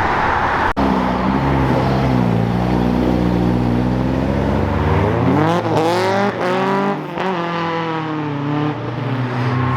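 A car engine revving as the car accelerates away, running low at first and then climbing steeply in pitch about halfway through, holding high with a couple of brief dips.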